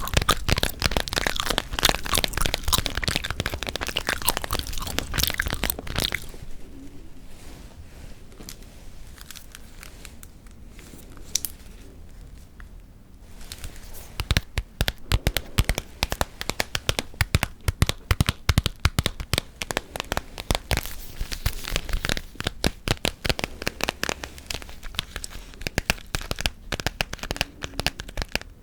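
Close-miked ASMR tapping and gum-chewing sounds: dense, rapid clicks, cracks and crinkles, easing to a quieter stretch from about 6 to 13 seconds in before picking up again.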